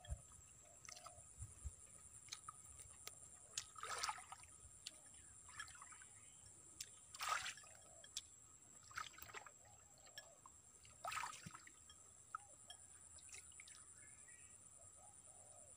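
Faint wet chewing and lip-smacking of a person eating, in short bursts every second or two, the loudest about seven seconds in.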